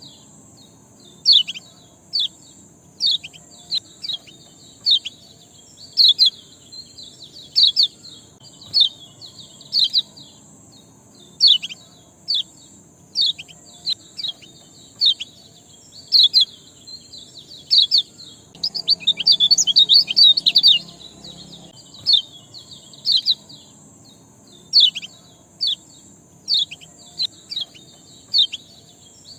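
A bird's 'ciak' chirp calls: short, sharp, downward-sweeping chips repeated about once or twice a second, with a rapid flurry about two-thirds of the way through. It is a lure ('pancingan') call used to set a reluctant caged songbird singing. A steady high-pitched ring runs underneath.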